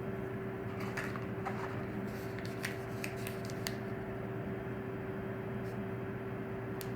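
A scattering of light clicks and rustles of hands handling packaging or the phone, a handful in the first half and one more near the end, over a steady low hum with a single held tone.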